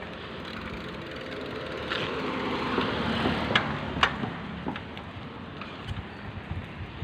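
A car passing close by. Its noise swells to a peak about three seconds in and then fades, with a few sharp clicks near the loudest point.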